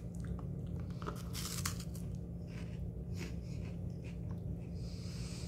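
Chewing crunchy Cheetos Flamin' Hot Puffs with the mouth, a string of soft crunches. Near the end a hand rustles in the snack bag.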